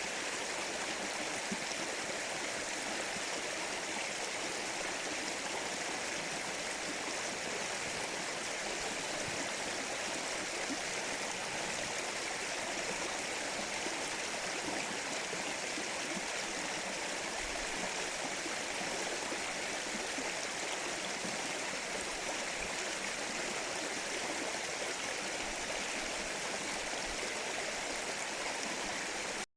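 Mountain stream flowing: a steady, unbroken rush of running water.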